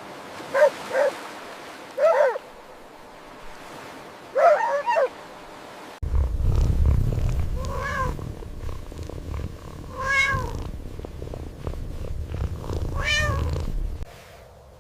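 Cat meowing: four or five short meows, then, after a cut, three longer meows over a steady low rumble.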